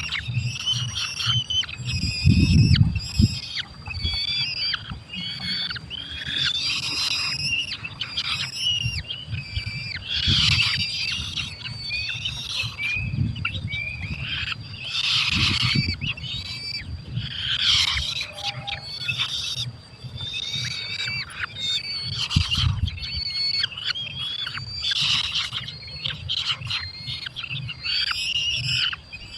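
Falcons calling at the nest: shrill, harsh calls one after another, with occasional low rumbles.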